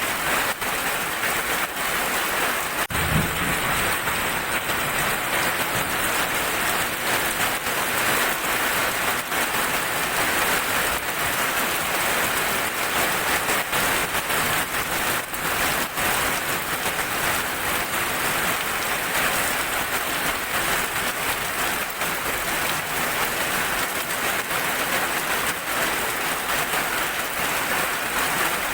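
Heavy rain falling steadily, with sharp individual drop hits scattered throughout. A brief low thump comes about three seconds in.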